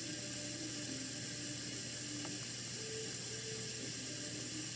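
GE Monogram dishwasher running its wash cycle: a steady hiss of water spraying inside the tub over a faint, even low hum.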